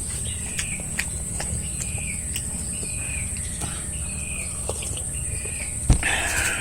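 Outdoor rural ambience: a steady high-pitched insect drone with a short chirp repeating about once a second. Scattered light clicks throughout, a single thump near the end, then a brief noisy rustle.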